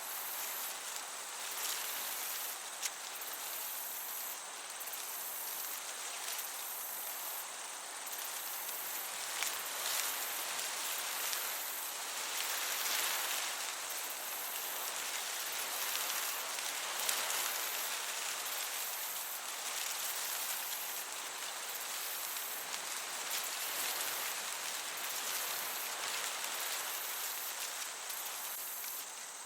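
Meadow ambience: crickets chirping in an even, pulsing rhythm, very high-pitched, over a constant soft hiss of breeze.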